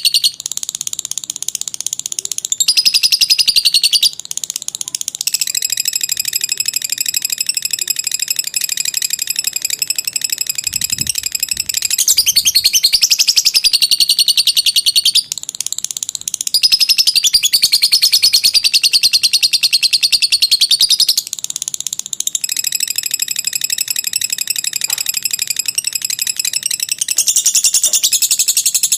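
Lovebird's long 'ngekek' song: a high, rapid, chattering trill that runs on in long bouts of several seconds, broken only by short pauses.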